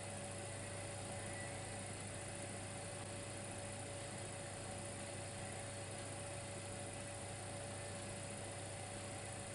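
Steady electrical hum from a Dimplex electric fireplace, with a thin constant whine and an even hiss underneath, unchanging throughout.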